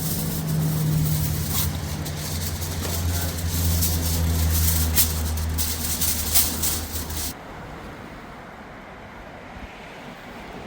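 A motor running steadily with a low hum and scattered sharp clicks over it, cutting off abruptly about seven seconds in.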